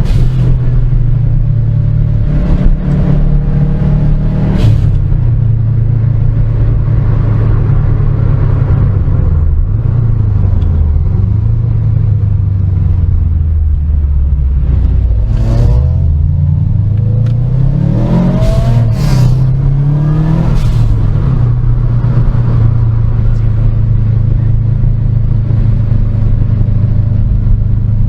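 Car engine running under way: its pitch falls as the car slows, then it revs up several times in quick succession with gear changes, before settling back to a steady drone.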